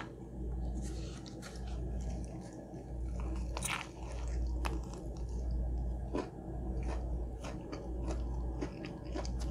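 Close-up biting and chewing of a crispy fried chicken sandwich topped with mac and cheese. The breading crunches in scattered short crackles, the loudest a little over three and a half seconds in.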